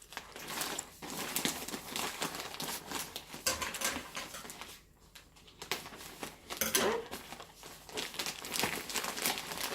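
Packaging crinkling and rustling in irregular bursts as towels are unwrapped by hand, with a brief pause about halfway through.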